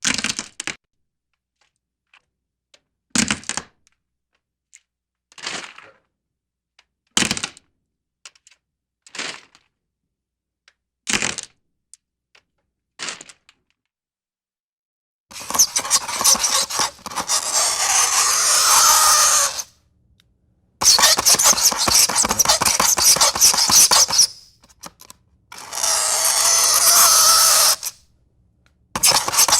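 Horror sound effects: a run of short, sharp cracks or hits about every two seconds, then, from about halfway, three long, harsh scraping sounds of about four seconds each.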